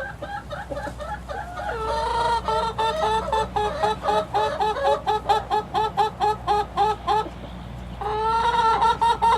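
Six-week-old chickens calling in a string of short pitched peeps. A denser, louder run of about three calls a second starts about two seconds in, breaks off briefly, then picks up again near the end.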